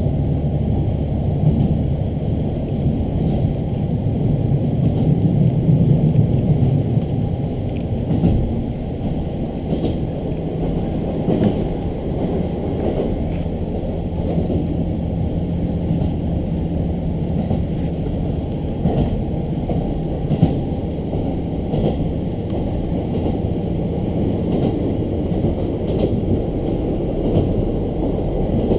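Diesel railcar under way, heard from inside: a steady engine drone with the rumble of the wheels and occasional clacks over rail joints. The engine note is strongest for the first several seconds, then eases.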